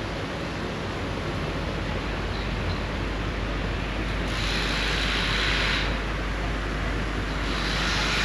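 Sea and wind along a seafront, a steady low rumble, with two hissing surges of waves washing in, about three seconds apart.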